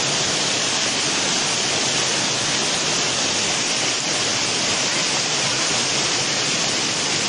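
Waterfall: falling water making a steady, even rushing hiss with no breaks.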